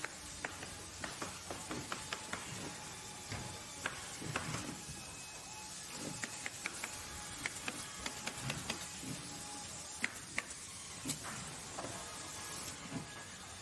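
Workshop or factory machinery noise: a steady hiss with many irregular sharp clicks and knocks.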